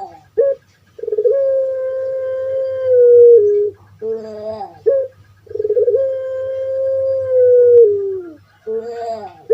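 Puter pelung (Barbary dove, Streptopelia risoria) singing its long call twice. Each call is a few short falling notes followed by one long, level coo of about two and a half seconds that steps down at the end.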